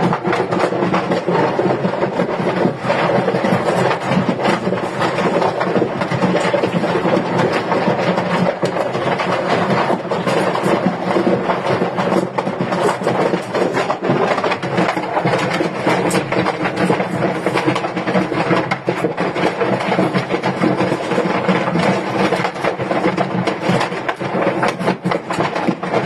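Firecracker-shop fire: a dense, steady crackle of many small pops and cracks, firecrackers going off in rapid succession among the flames.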